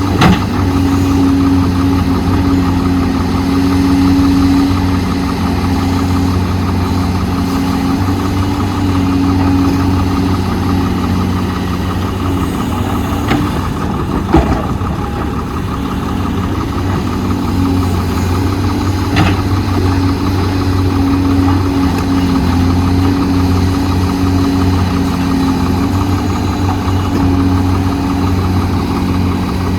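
Diesel engine of heavy construction machinery running steadily, its speed dipping and rising a little, with a few short sharp knocks, one at the very start and a few around the middle.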